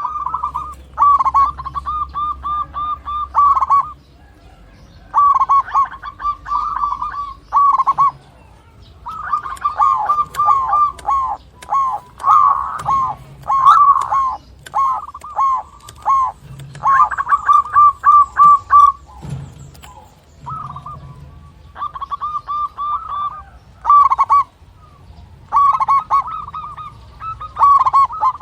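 Zebra dove (local perkutut) cooing: phrase after phrase of quick, staccato coo notes, each phrase lasting a second or two with short pauses between.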